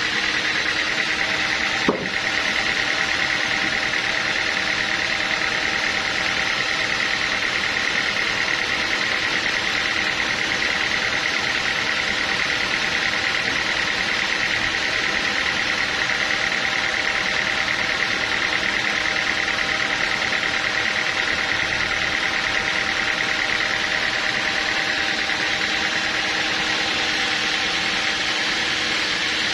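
Sawmill machinery running steadily at an even pitch, with one sharp click about two seconds in.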